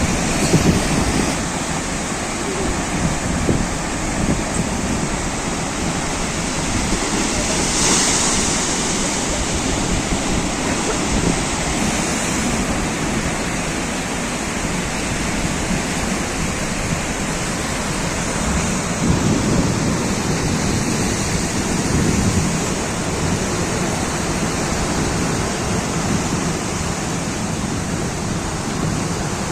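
Sea waves breaking and washing, a steady rushing that swells and eases every few seconds.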